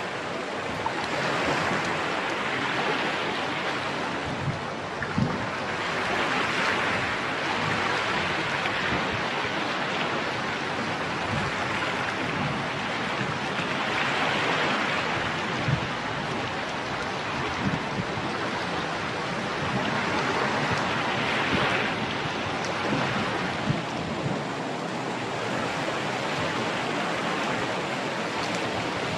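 Ocean surf: waves breaking and washing ashore in a steady rush that swells every several seconds.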